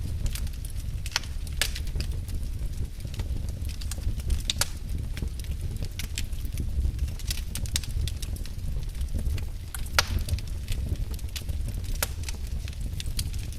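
Wood fire crackling in a fireplace: irregular sharp pops and snaps over a steady low rumble of the flames, with a louder pop about ten seconds in.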